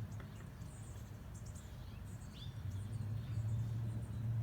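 Birds chirping in short calls with a brief falling whistle, over a steady low hum that fades in the middle and comes back near the end.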